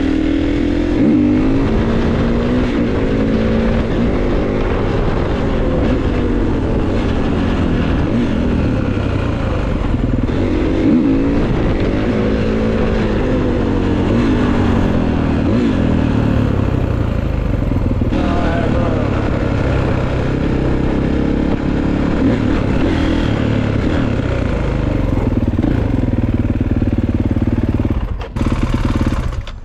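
Dirt bike engine running on the move, its pitch rising and falling again and again as it is revved up and eased off through the gears, over a steady rush of wind noise. It dips briefly near the end.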